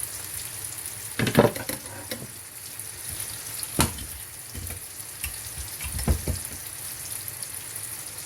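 Hot cooking oil sizzling steadily in a frying pan, with a few clattering knocks: one about a second in, one near four seconds and one about six seconds in.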